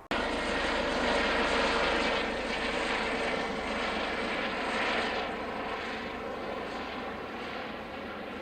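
Aircraft engines, a loud rushing noise with a steady hum in it. It starts abruptly and slowly fades after about five seconds.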